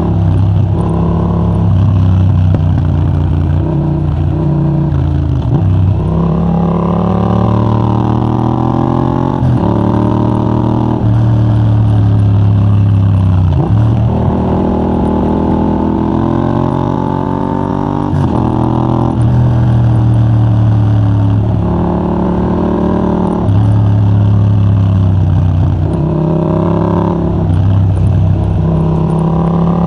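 Yamaha MT-07's 689cc parallel-twin engine, breathing through a de-catted titanium Mivv GP Pro exhaust with a 35 mm dB killer, pulling hard through the gears: the pitch climbs, drops sharply at each shift, and climbs again, several times over.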